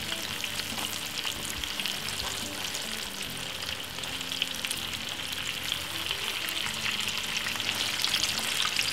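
Breaded salmon pieces shallow-frying in hot oil in a frying pan: a steady sizzle full of small crackles.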